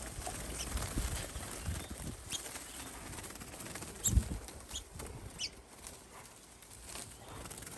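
Small birds trapped in garden bird netting, fluttering and rustling in the mesh, with a few short high chirps and a dull thump about four seconds in.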